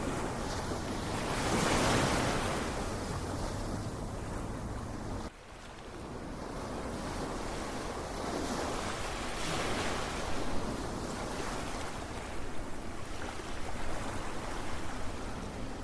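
Ocean surf: waves breaking and washing in, swelling about two seconds in and again around nine to ten seconds. The sound cuts out abruptly about five seconds in and builds back up over the next few seconds.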